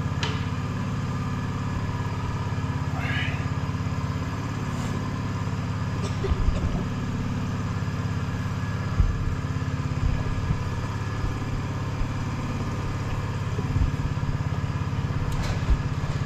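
An engine idling steadily, with a few short knocks and clinks scattered through it.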